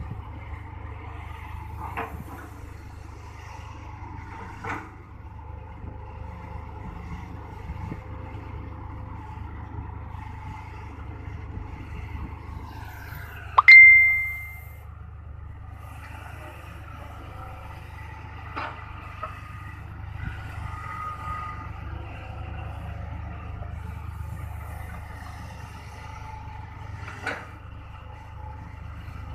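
Excavator's diesel engine running steadily while it loads a dump truck, with a few sharp metal knocks and, about halfway through, one loud metallic clang that rings on as a clear tone for about a second.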